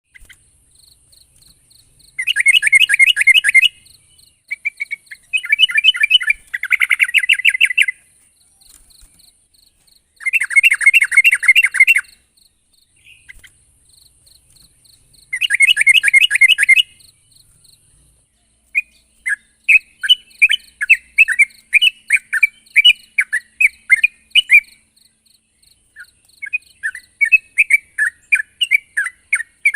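Yellow-vented bulbul (trucukan) singing loudly. It gives several bursts of fast bubbling trills, each a second or two long. In the second half these give way to a quick run of short chirping notes at several a second, the vigorous calling that draws a rival to answer.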